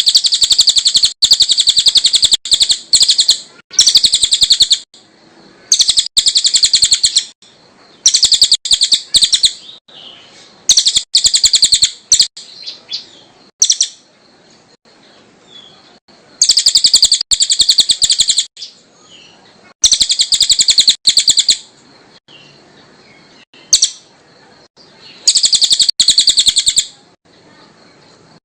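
Cililin songbird singing a loud, very fast, high chattering song in repeated phrases of about a second each, broken by short pauses. It is a master recording used to tutor caged songbirds.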